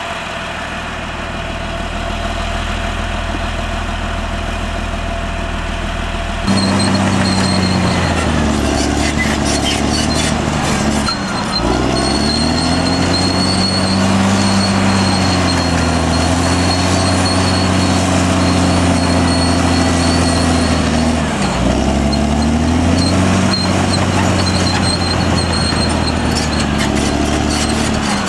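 Caterpillar D6R XL bulldozer's diesel engine running. After about six seconds it jumps to a louder, busier sound whose pitch rises and falls as it works, dipping sharply and recovering a few times, with a thin high whine above it.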